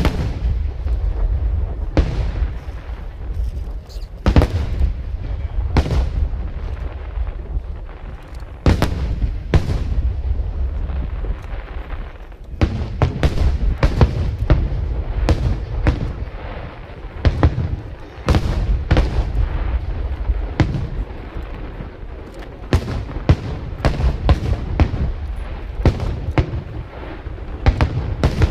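Aerial fireworks display: shells bursting one after another as dozens of sharp bangs over a continuous low rumble. The bangs come fastest in the second half, several a second at the busiest.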